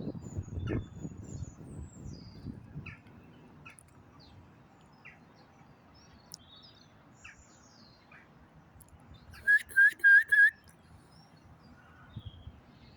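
Four quick, loud whistled notes in a row about two-thirds of the way in, over scattered faint bird chirps; low rustling noise in the first few seconds.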